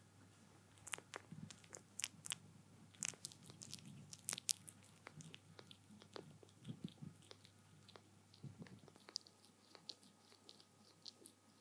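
Kittens suckling while dozing off, with no milk to be had: faint, irregular wet sucking smacks and little clicks that thin out near the end.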